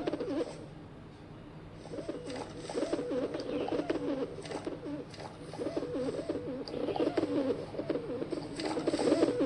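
Pigeon cooing: low, throaty coos repeated in runs, pausing from about half a second in until about 2 seconds and briefly again near 5 seconds.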